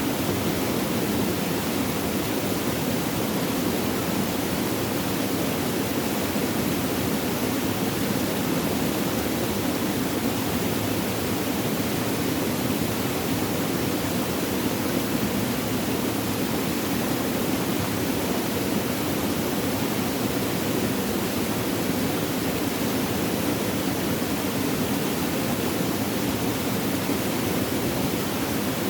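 Steady rushing of flowing water, even and unbroken, fullest in the low-middle range.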